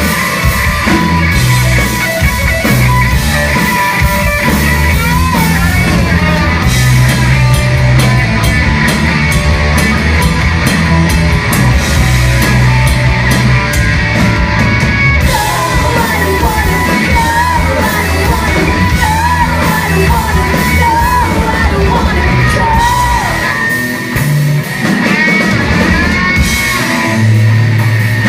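Rock band playing live: guitars, bass and drum kit with female singing. The bass and drums drop away for a moment about 24 seconds in, then come back.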